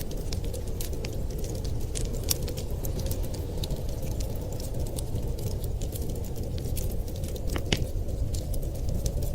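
Wood fire crackling with frequent small sharp pops and one louder snap near the end, over a steady low rumble of storm wind.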